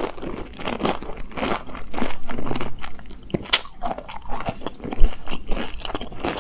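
A person chewing a whole golgappa (pani puri) in her mouth, the crisp fried puri shell crunching in quick, irregular crunches, with one sharper, louder crunch about five seconds in.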